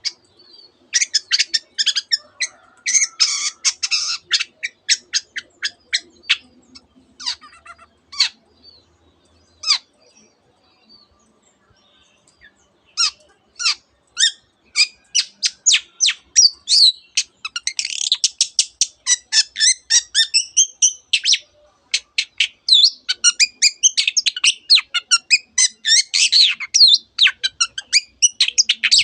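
Long-tailed shrike singing in rapid runs of short, sharp notes and warbled phrases, its song packed with mimicry of other birds such as the canary. There is a short lull about ten seconds in, and the notes come thicker and faster from about thirteen seconds.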